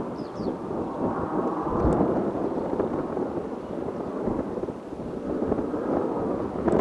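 Jet roar from Blue Impulse Kawasaki T-4 trainers in their display, a steady, wavering rumble.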